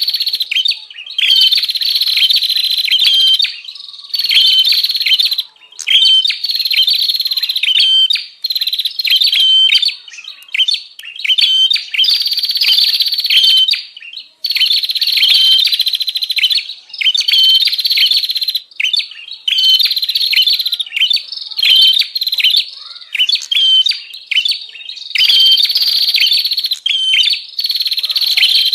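Prenjak (prinia) calling in fast, busy chattering runs of sharp chirps, each run a second or two long with brief breaks between: a lively 'ribut' call used as a lure for wild prenjak.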